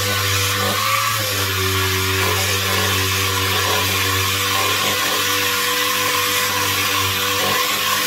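Pneumatic air sander with 80-grit paper running steadily on welded aluminum, a continuous hiss over a steady motor tone. Its pitch dips briefly about a second in.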